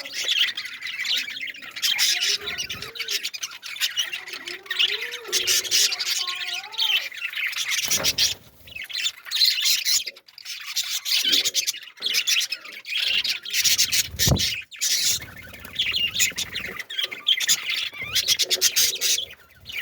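Many small birds chirping and tweeting without pause, with a few lower, wavering squawk calls in the first seven seconds.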